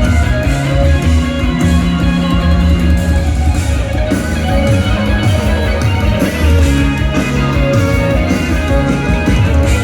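Live rock band playing: an electric guitar solo over bass guitar and drums, loud and steady throughout.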